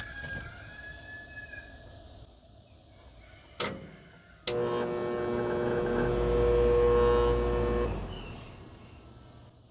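A sharp click, then a second click as the air conditioner's condenser kicks on with a loud, steady electrical hum and low rumble from the compressor. After about three and a half seconds it cuts out and winds down: the breaker tripping again, which the weak run capacitor later found turns out to cause.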